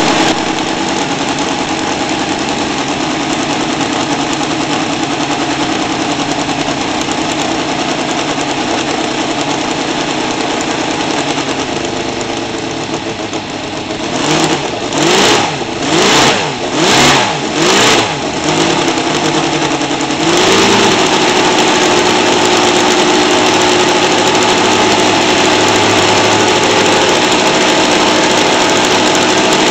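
Seidel 7-70 seven-cylinder four-stroke radial model aircraft engine swinging a 24 x 10 propeller on a test stand, running steadily during break-in. About halfway through, the throttle is blipped four times in quick succession, each burst rising and falling in pitch, and then the engine settles into steady running at a higher speed.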